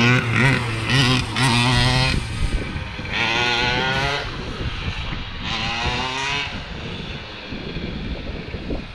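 Two-stroke gas engine of a large-scale RC monster truck running, revved in three throttle bursts and falling back to a lower running note between them, while the new engine is still being broken in.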